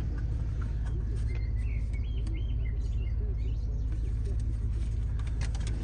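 Land Rover Discovery 4's 3.0-litre V6 turbo diesel idling steadily, with a few faint bird chirps about one and a half to three seconds in.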